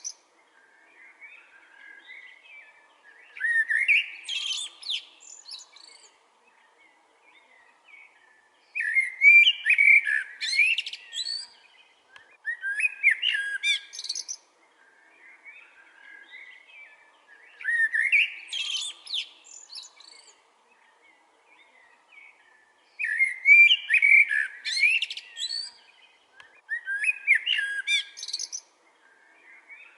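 Songbird singing: six bright, warbling phrases of two to three seconds each, repeated every few seconds, with softer chirps in the gaps.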